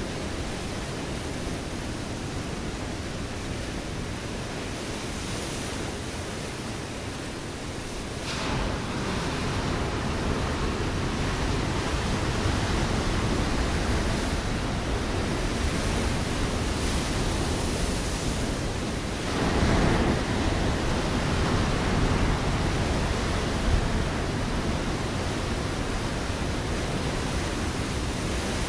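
Ocean waves breaking on a rocky shore: a steady rush of surf, with a wave surging in about a third of the way through and a louder crash about two-thirds through.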